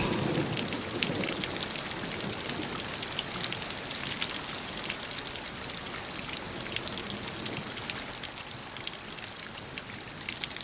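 Rain falling steadily, a soft hiss with scattered ticks of drops, easing off slightly toward the end.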